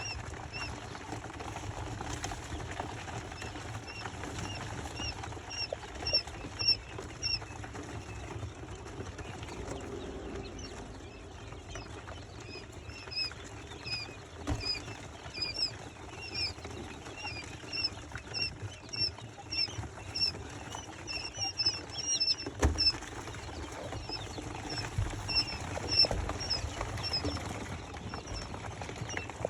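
Young chicks peeping: a constant run of short, high peeps, several a second, with one sharp knock a little past the middle.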